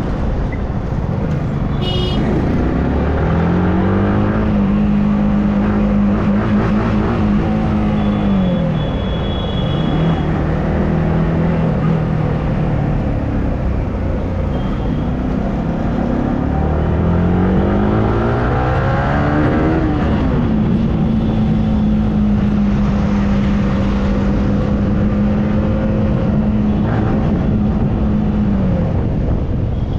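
Yamaha R15M motorcycle's single-cylinder engine riding through traffic over steady wind and road noise. Its pitch climbs about three seconds in and holds, then drops around nine seconds. It climbs again from about sixteen to twenty seconds, drops sharply, holds steady, and falls away near the end.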